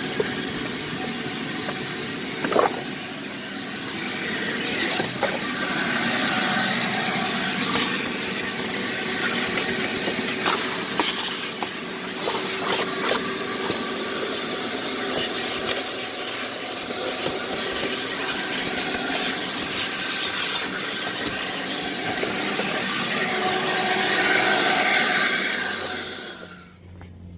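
Blower running steadily, blowing water off a truck, shut off about a second before the end.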